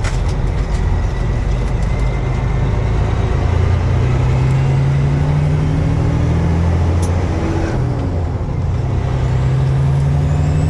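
Heavy truck's diesel engine running under road noise, heard from the cab; the engine note climbs twice as the truck pulls, with a dip in between.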